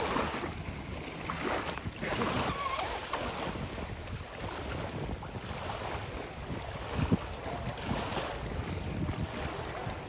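Wind buffeting the microphone over waves on open water, with the Pro Boat Sonic Wake RC speedboat's brushless electric motor whining faintly in the distance at times.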